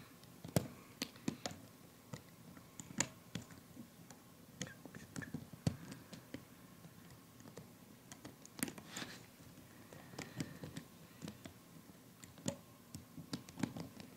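Irregular small clicks and taps of a plastic loom hook working rubber bands over the pegs of a Fun Loom, a few light snaps a second at most, with pauses between.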